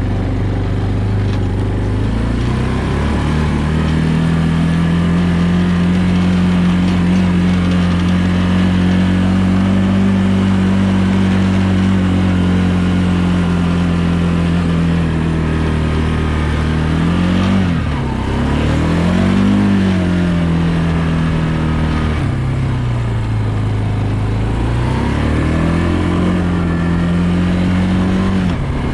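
Engine running under varying speed: its pitch climbs about two seconds in and holds steady, then dips and recovers, drops again and climbs back up near the end.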